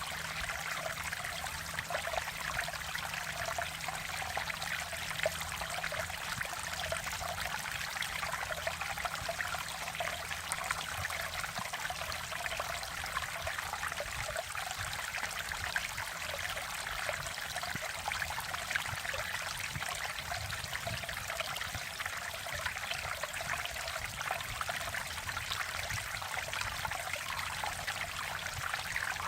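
Mountain-valley stream water flowing and trickling over rocks, a steady, even rush of water.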